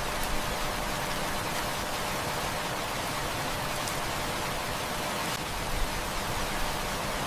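Heavy rain falling in a steady, even hiss, with a few faint pops from a crackling wood fire.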